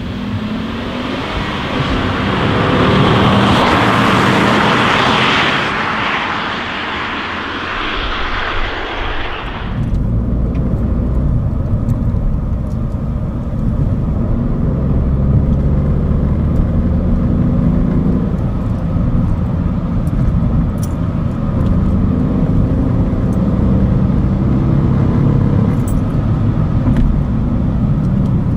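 A 2015 Ford Fiesta Zetec S's 1-litre EcoBoost turbocharged three-cylinder engine pulling the car along, its note rising and falling through the gears. For the first ten seconds a loud rushing noise covers it, then cuts off suddenly.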